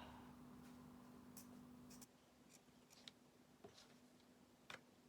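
Near silence with a few faint scattered clicks and light scratches from handling paper-craft materials on a card.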